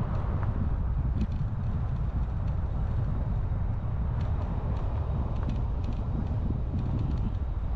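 Steady low rumble of a vehicle in motion, with a few faint light clicks.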